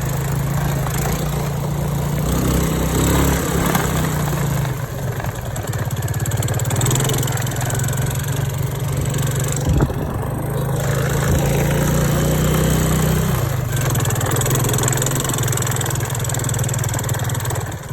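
Motorcycle engine running while being ridden, a steady low drone that eases off about four seconds in and again near the end.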